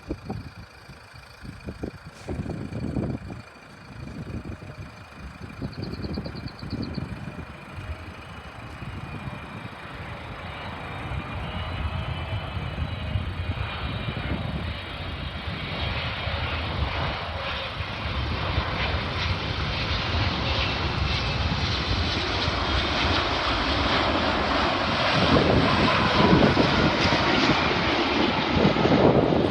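Airliner's engines growing steadily louder as the aircraft approaches, a rushing roar with a faint high whine on top. Wind buffets the microphone in the first few seconds.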